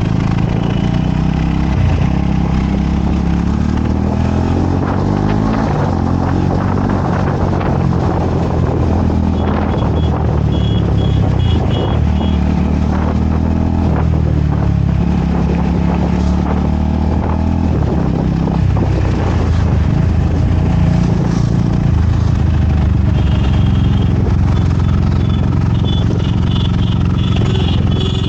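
Motorcycle engine running on the move, its pitch rising and falling as it accelerates and shifts through gears. Runs of short, high beeping tones come in twice, in the middle and near the end.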